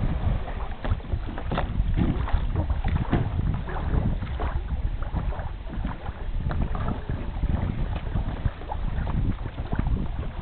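Wind rumbling on the microphone over irregular splashing and sloshing of water around a kayak.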